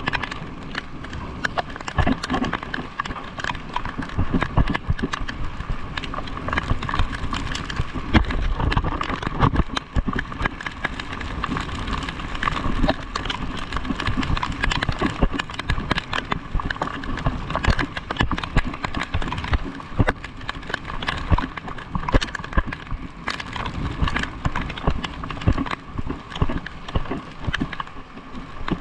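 Irregular clattering knocks over a steady hum.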